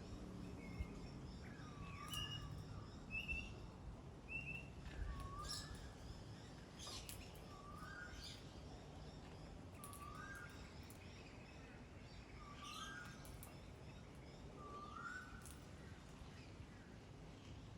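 Pale-headed rosella calling in short notes over steady background hiss: a few higher chirps in the first few seconds, then one short lower call repeated about every two to three seconds.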